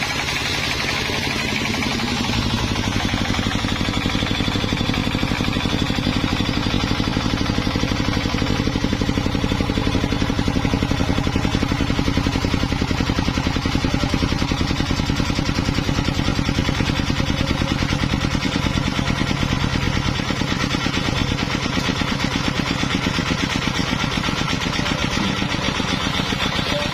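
A sawmill's engine running steadily with a rapid, even chugging, growing a little louder about two seconds in.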